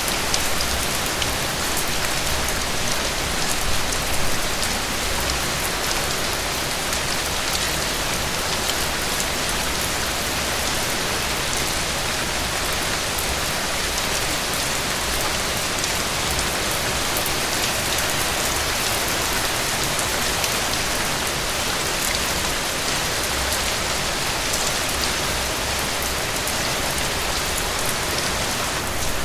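Heavy rain falling steadily, a dense even hiss with many individual drop ticks on surfaces, over a faint low rumble.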